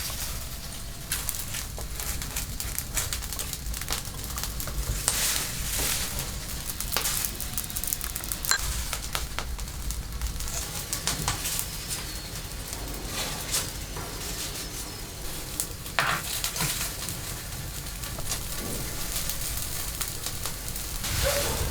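Food sizzling and frying in a pan, a steady hiss with many scattered crackles and pops.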